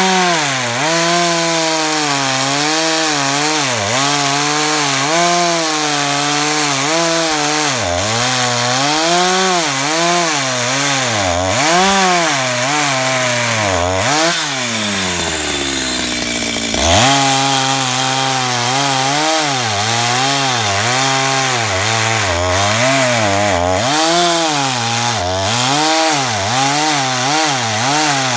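Chainsaw cutting into a wooden log, its engine speed rising and falling constantly as the cut loads it. About halfway through, the engine winds down for a couple of seconds, then picks straight back up to full speed.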